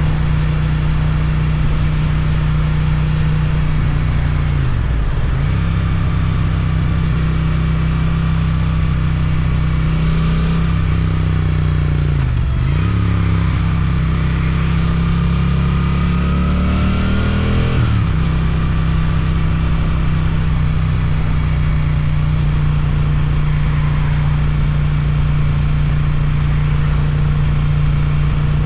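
Suzuki GSX-8TT parallel-twin motorcycle engine through an Akrapovic exhaust, running under way. The revs dip briefly about five seconds in and again near the middle, then climb steadily and fall back a little past halfway, and the engine cruises steadily after that.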